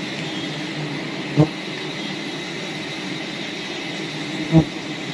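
Steady buzzing of a swarm of wild bees around their hive, with two short thuds, one about a second and a half in and one near the end.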